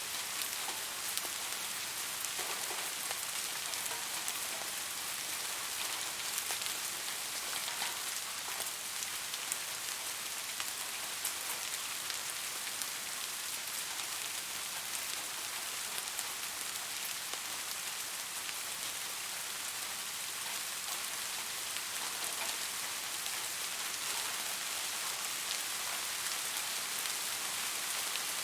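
Steady rain, a dense even hiss of drops with many small individual drop ticks.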